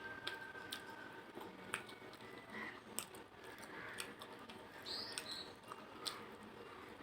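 Close-up eating sounds of a person eating rice with fish-head curry: wet chewing and lip smacks, with sharp little clicks every second or so.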